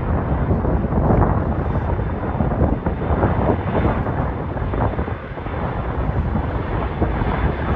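Jet airliner departing: a loud, steady rumble of jet engines, with gusts of wind buffeting the microphone.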